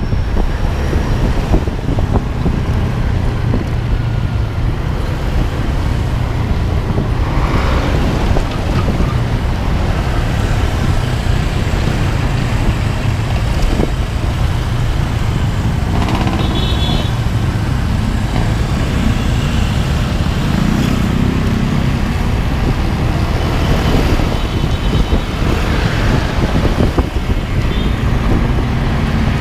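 Steady low rumble of a vehicle on the road, from its engine and tyres.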